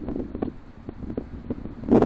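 Wind buffeting an outdoor microphone as a steady low rumble, with a few faint irregular taps.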